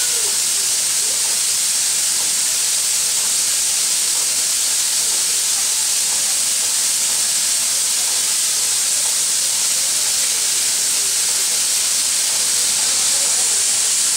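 Soviet class L steam locomotive L-4600 standing with steam blowing off: a loud, steady, high hiss that does not change.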